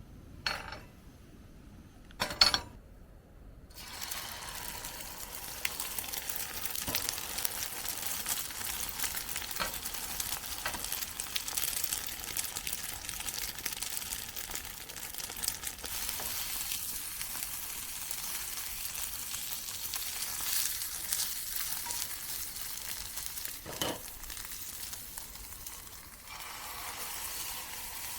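A couple of knocks, like a pan or utensil being set down, then about four seconds in, food starts sizzling and crackling in a hot pan and keeps frying steadily.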